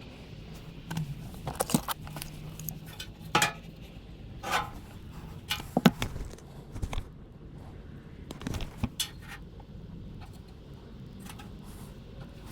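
Scattered clinks and knocks of metal parts and tools being handled, over a low steady hum.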